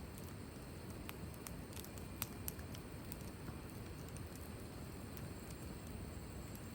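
Wood fire crackling: irregular sharp pops, the loudest a little after two seconds in, over a steady low rumble.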